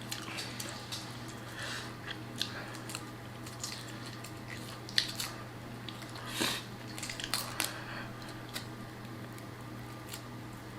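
Close-up eating sounds: wet chewing and squishing of boiled crawfish and shrimp, with scattered short clicks, the loudest about five and six and a half seconds in, over a steady low hum.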